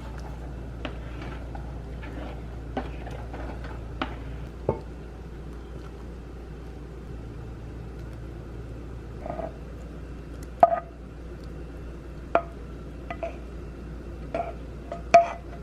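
Kitchen utensil tapping and clinking against a pot of tteokbokki while cooking: scattered light taps, with a few sharper ringing knocks in the second half, over a steady low hum.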